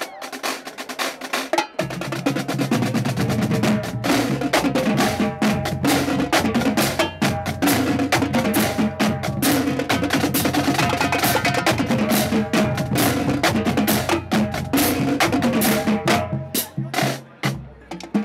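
Marching drumline playing a fast cadence: rapid snare strokes and rolls, with pitched bass drums joining about two seconds in and dropping out near the end.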